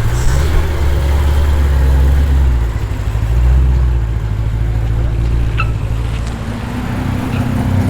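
Performance car's engine with a deep, loud low rumble as it rolls slowly past, swelling briefly a few seconds in.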